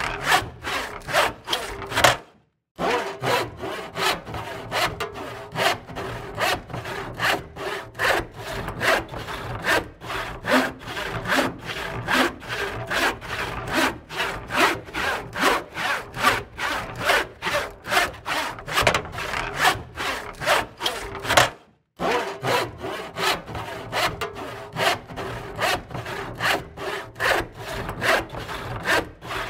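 Handsaw cutting through wood, back-and-forth rasping strokes at about two to three a second. The sound drops out completely twice, each time for a fraction of a second.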